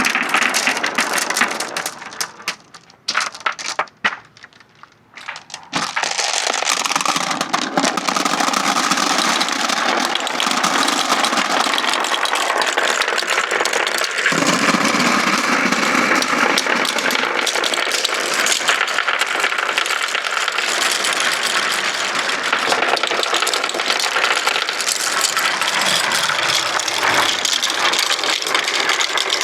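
Marbles rolling and clattering down wooden ramps in a dense, continuous rattle. About three seconds in it thins to a few scattered clicks for a couple of seconds, then builds back up.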